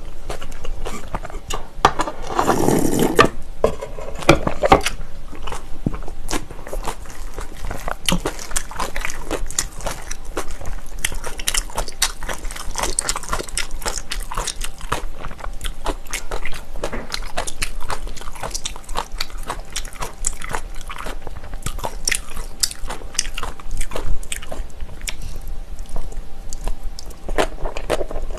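Close-miked chewing and biting of spicy bibimbap with crunchy vegetables (bean sprouts, cucumber, radish), wet mouth clicks and smacks, and occasional utensil clicks on a stainless-steel bowl. There is a louder noisy burst about two to three seconds in.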